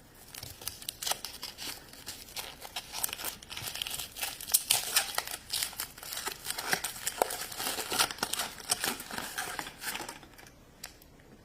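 Foil wrapper of a chocolate surprise egg being torn open and crinkled by hand as the egg is unwrapped. The crackling stops about ten and a half seconds in.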